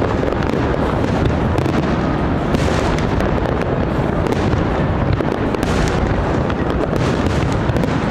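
Aerial fireworks display going off: a dense, unbroken run of overlapping booms and crackles, held at a steady loudness.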